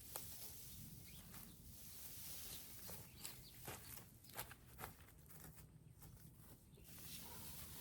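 Faint rustling and a scattered run of light clicks and taps from shade cloth being handled and spread out, most of them in the middle of the stretch.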